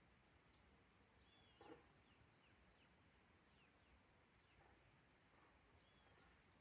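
Very faint countryside dusk ambience: a steady high chirring of insects with scattered faint bird chirps, and one brief, slightly louder sound about a second and a half in.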